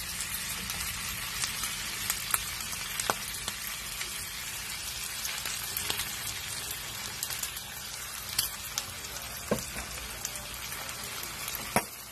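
Pork sisig with egg sizzling steadily in a hot pan as it is stirred, with several sharp clicks of the spatula against the pan.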